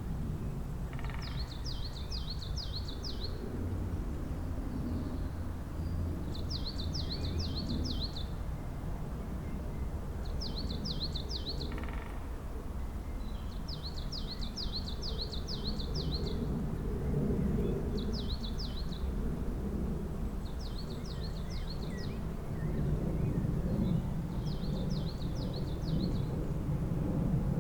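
A songbird singing the same short phrase over and over: a quick run of high chirping notes lasting about a second, repeated every two to three seconds, over a steady low rumble of background noise.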